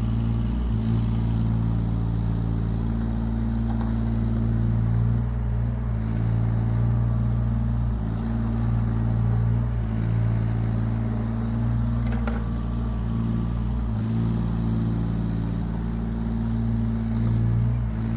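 Yanmar ViO17 mini excavator's three-cylinder diesel engine running at a steady speed, with a few faint clicks.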